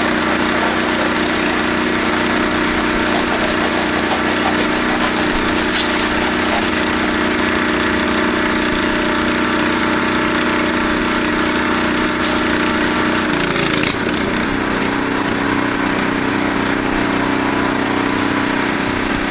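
Pressure washer's small engine running steadily under a broad hiss, with a shift in its pitch about two-thirds of the way through.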